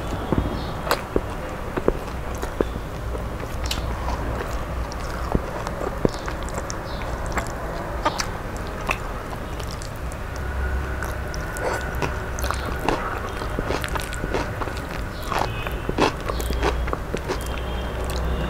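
Close-miked eating by hand: chewing with many small wet mouth clicks, and fingers working soft rice and mashed eggplant together on a steel plate.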